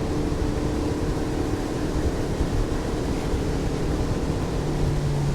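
Boat motor running steadily at speed, with a constant rush of wind and water. Its pitch lifts slightly about four seconds in.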